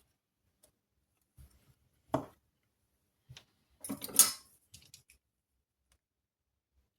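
Handling noises of small hard objects: a few sharp clicks and knocks, the loudest about two seconds in, then a short clattering scrape a little after the middle, with silence between.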